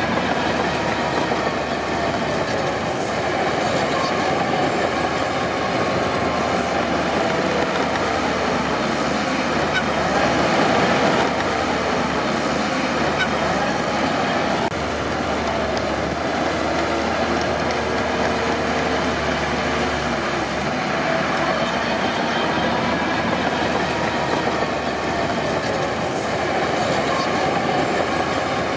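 Crawler bulldozer working: its diesel engine runs steadily under load while the steel tracks clank and squeal with wavering pitch.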